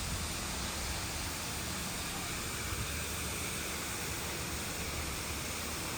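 Steady background noise: an even hiss with a low rumble underneath and a faint, thin high whine, with no distinct events.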